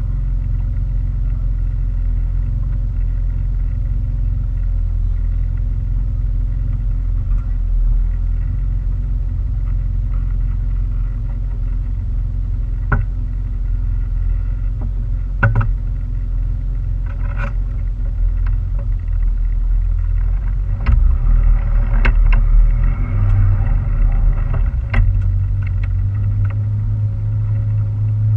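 Boat motor running with a steady low rumble, broken by a few sharp knocks and taps; a steadier hum sets in near the end.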